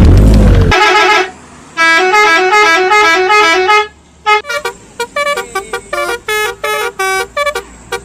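Basuri-style telolet bus horn playing a quick stepping melody of several tones, first as a running phrase and then in short separate notes. A deep rumbling boom at the start cuts off under a second in.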